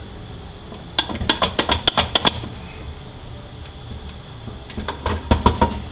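Metal transmission parts clicking and clinking as they are handled and pulled apart: a quick run of clicks about a second in, then another run near the end.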